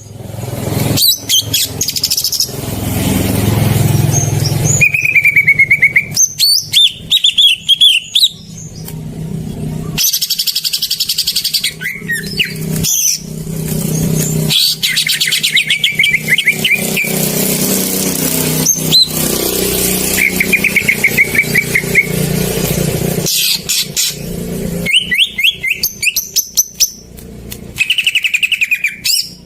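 Green leafbird (cucak ijo) song: loud, rapid trilled phrases and sharp chirps, repeated again and again as a lure to set a silent cucak ijo singing. A low rumble runs underneath at times.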